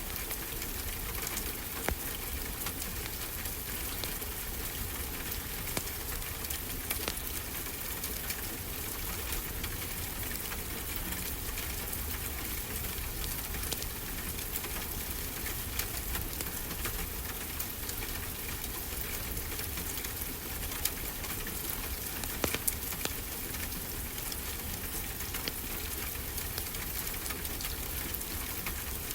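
Wood fire crackling, with scattered sharp pops, over a steady wash of ocean surf.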